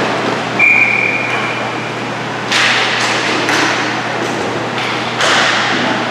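A referee's whistle blown once, briefly, on a single high note. It is followed by several sharp bangs that ring out in the echoing ice rink, like sticks or pucks striking the boards.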